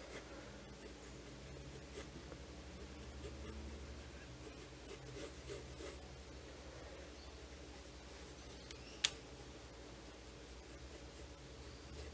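Faint scratching of quick sketching strokes on sketchbook paper, with a single sharp click about nine seconds in.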